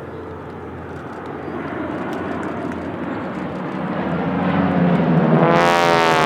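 North American Harvard trainers, with Pratt & Whitney R-1340 Wasp radial engines and the rasp of their propellers, flying past. The sound swells from about two-thirds of the way in and is loudest near the end, where its pitch drops as they go by.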